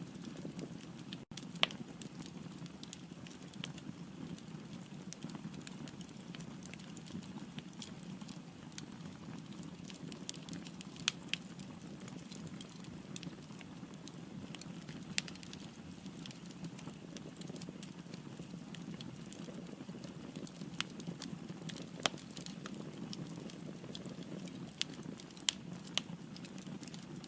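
Firewood burning in a fireplace: a steady low rush of flames with scattered sharp crackles and pops, a few louder snaps standing out.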